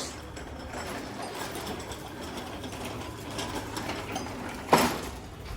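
Mechanical clatter of hand tools working on a vehicle: a continuous run of small rapid clicks, with one loud knock near the end.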